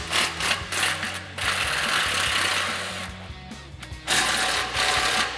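Impact wrench with a 14 mm socket hammering the nuts off an exhaust flange: a few short bursts, then two longer runs of hammering.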